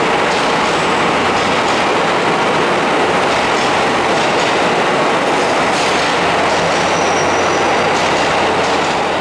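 Express Hamanasu's old locomotive-hauled passenger train running on the rails: a loud, steady rumble with a few faint clicks.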